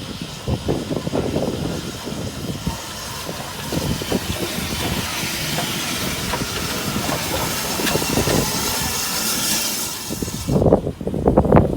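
Steam locomotive hissing steam, the hiss growing stronger and then cutting off suddenly about ten and a half seconds in, with irregular low thumps underneath. Wind buffets the microphone near the end.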